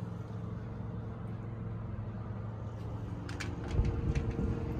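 A car engine idling with a steady low hum. A few light clicks and low knocks come in about three and a half seconds in.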